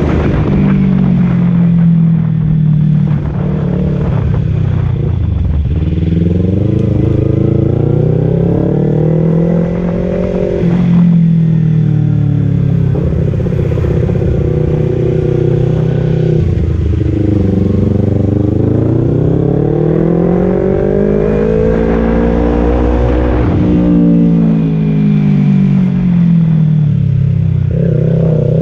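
Kawasaki Z250 parallel-twin engine through a Leovince Cobra aftermarket exhaust, ridden on the road: the exhaust note rises as the bike accelerates and drops sharply at gear changes, about a third and about four fifths of the way in, then falls and climbs again.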